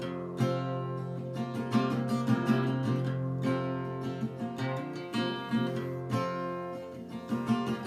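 Acoustic guitar being strummed, chords ringing in a steady rhythm with no singing.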